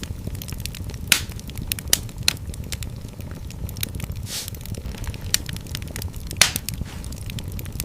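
Wood fire in a fireplace crackling, with irregular sharp pops and snaps over a steady low rumble of the flames. The louder pops come about a second in and again near the end, with a brief hiss near the middle.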